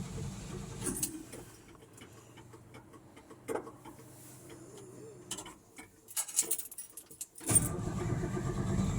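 Chevrolet C10 pickup being cold-started: a low rumble dies away in the first second or so, then a quiet stretch with a few light clicks. About seven and a half seconds in, the starter suddenly cranks the engine again, which does not yet catch.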